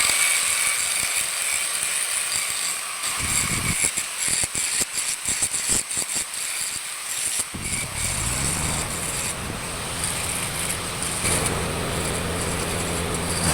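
Stick welding with a hard-facing rod on a worn steel pinion gear: the arc crackles and hisses, with a run of sharp pops in the middle. About halfway through, a steady low hum comes in under it.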